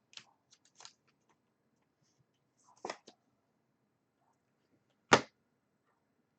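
Trading cards and packs being handled on a table: a few short clicks and rustles, then one much louder thump about five seconds in.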